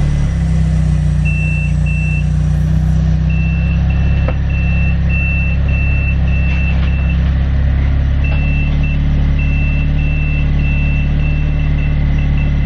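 Engine idling steadily, most likely the Nissan CA18DET turbo four-cylinder of the kit car, with no revving. Over it a short high electronic beep repeats about twice a second, pausing twice.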